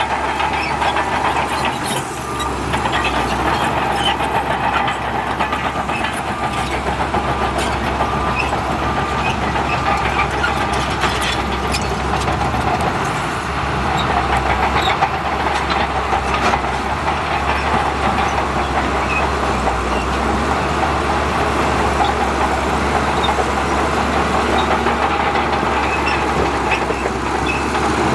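Heavy diesel earthmoving machinery running steadily, with scattered short metallic clanks and knocks.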